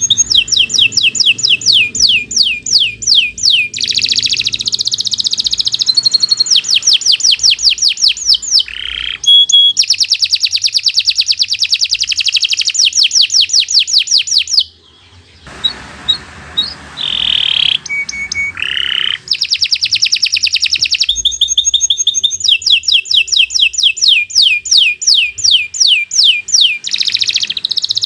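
Domestic canary singing long, vigorous song phrases of rapidly repeated high sweeping notes. The song breaks off briefly about halfway through, gives a few separate notes, then resumes its trills.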